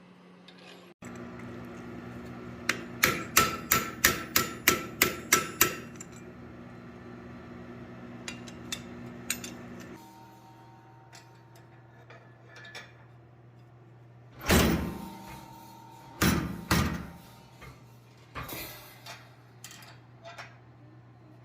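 Hand hammer striking hot steel on an anvil while forging a Hashknife brand: a run of about ten ringing blows, about three a second, then a few lighter taps, and later a few heavier clanks and knocks. A steady mechanical hum runs underneath.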